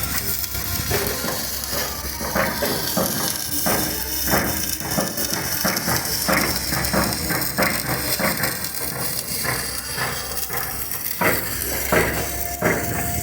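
Irregular hammer blows on steel, two or three a second, over a steady hiss.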